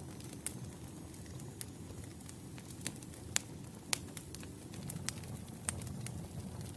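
Wood campfire crackling: a steady low rumble of burning logs with scattered sharp pops and snaps, the loudest two a little past three seconds and about four seconds in.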